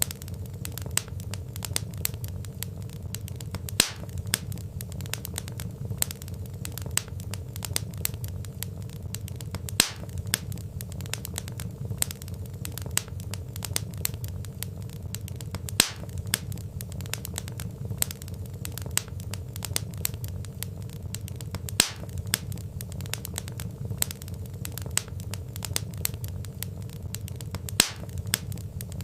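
Wood fire crackling: dense small crackles over a low steady rumble, with a louder pop about every six seconds.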